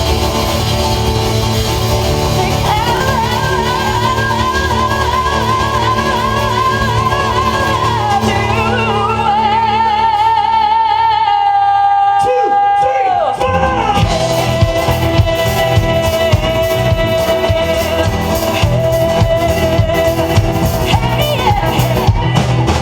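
Live band music: a singer holds long notes with vibrato over guitars, bass and drums. About halfway through the music breaks off briefly with a falling glide, then a long steady note holds over a regular drum beat until the song ends.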